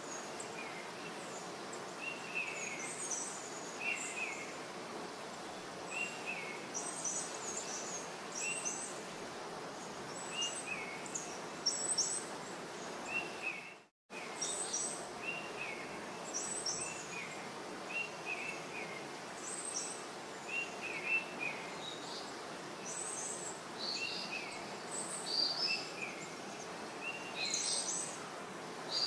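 Small birds chirping repeatedly in short, falling calls over a steady background hiss of ambience; the sound cuts out for a moment about halfway through.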